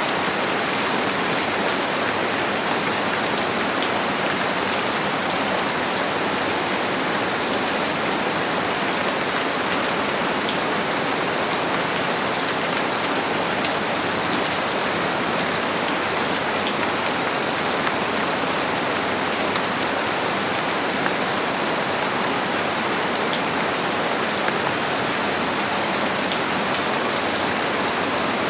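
Steady rain falling and pattering on a surface, an even hiss dotted with many small drop taps.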